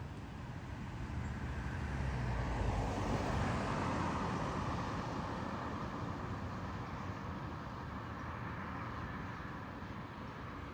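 Road traffic noise: a vehicle passing, its rush swelling about two to four seconds in and then easing back to a steady roadway hum. No birdsong stands out.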